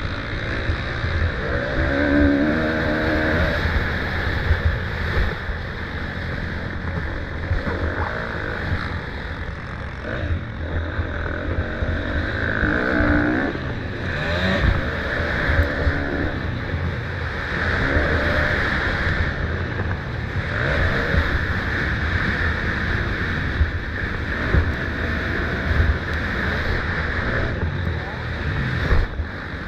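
Motocross dirt bike engines running hard during a race, repeatedly revving up and dropping back, over a constant low rumble.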